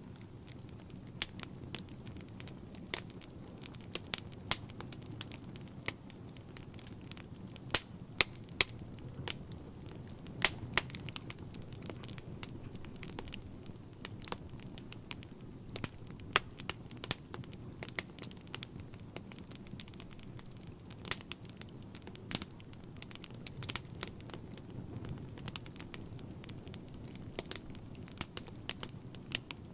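Wood fire in a fireplace burning, with a steady low rumble of flame and frequent irregular sharp crackles and pops.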